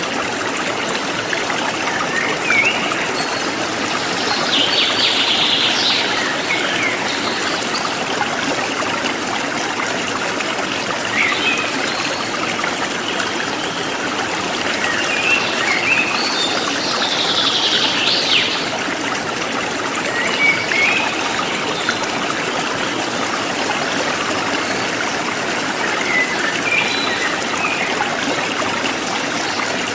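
Forest stream flowing steadily, with birds chirping now and then over it; two longer, louder bird songs come about five seconds in and again just past halfway.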